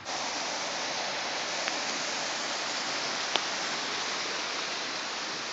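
Steady hiss of rushing water, with two faint clicks.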